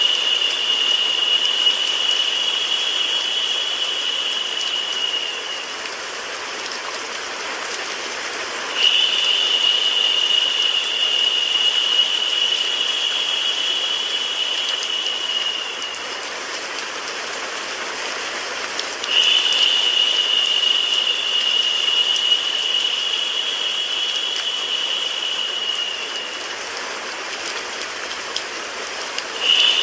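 Steady hiss of recorded rain mixed with white noise, with a high steady whine laid over it that sounds for about seven seconds, stops for about three, and repeats roughly every ten seconds.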